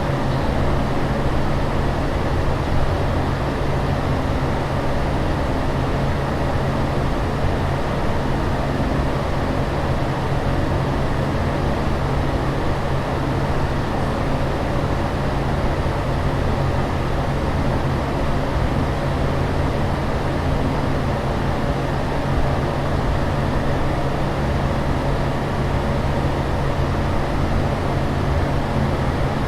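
Aircraft cabin noise in flight: an even, unchanging rush of air and engine drone with a steady low hum underneath.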